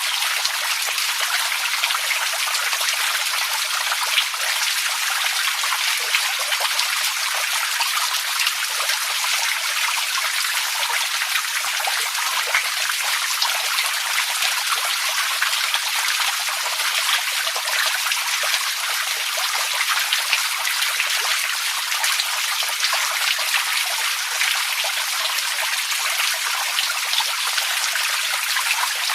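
Water running steadily, a continuous even rush full of fine splashing and trickling detail that does not change.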